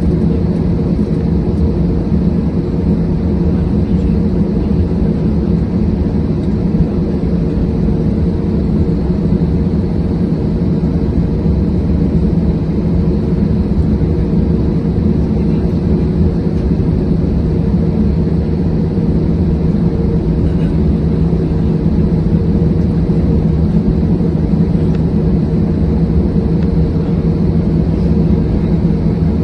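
Airbus A320 jet engines running in a steady, loud drone with a low rumble and a constant hum.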